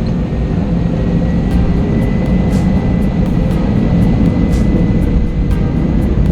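Airbus A320 cabin noise: the jet engines running with a steady rumble and a thin steady whine that sets in about a second in, with a few light rattles.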